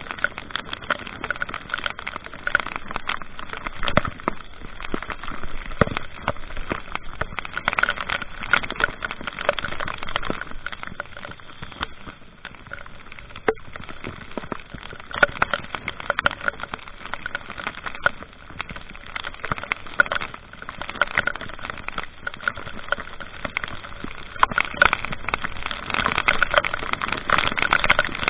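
Vehicle on the move: steady road and engine noise with dense crackling and buffeting on the microphone throughout.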